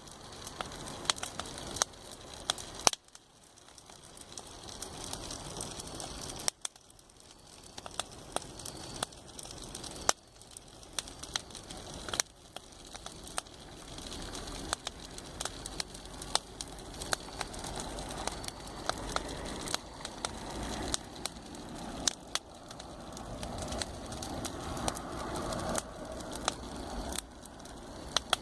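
Wood fire burning, crackling and popping with many sharp snaps over a soft hiss.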